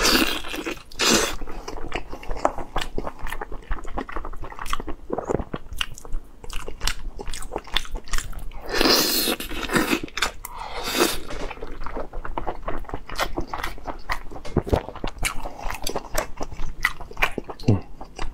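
Close-miked mouth sounds of a man biting and chewing boiled lamb rib meat off the bone: wet smacks and clicks in quick succession, with a couple of louder, longer noises near the middle.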